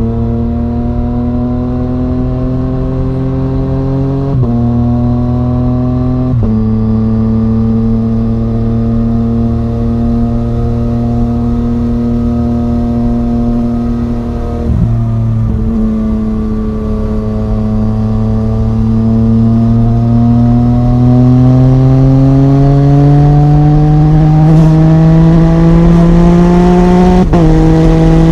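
Yamaha MT-09's 847 cc crossplane three-cylinder engine running through an Arrow Thunder full exhaust system while the bike is ridden. The engine note rises slowly under acceleration, and its pitch drops sharply four times as the rider changes gear.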